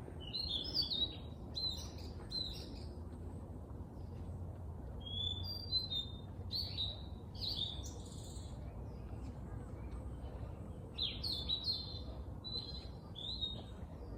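A songbird singing in quick, chirpy phrases, three bursts of song separated by short pauses, over a steady low background hum.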